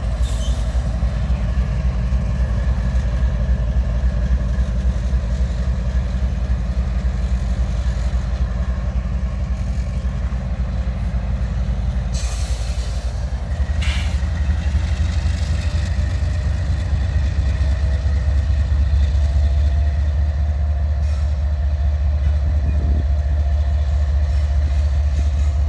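CSX diesel-electric locomotive running as it hauls a train of tank cars slowly past, a steady low engine rumble that deepens about halfway through. Two sharp metallic clanks come from the train near the middle.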